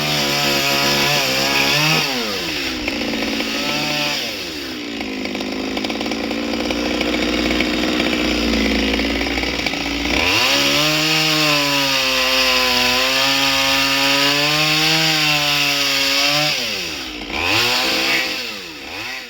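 Chainsaw running hard while cutting wood, its engine pitch sinking under load for several seconds in the middle and rising again, then dropping and picking up twice in quick succession near the end.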